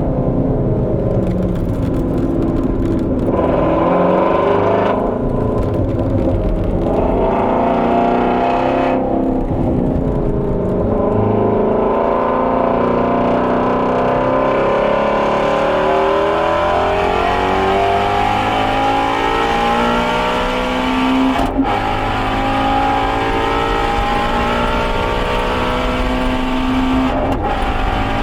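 Ford Mustang Shelby GT350R's 5.2-litre flat-plane-crank V8 being driven hard on track. The engine note falls and drops off the throttle in the first few seconds, then climbs in a long rising pull under full throttle, broken by two quick upshifts near the end.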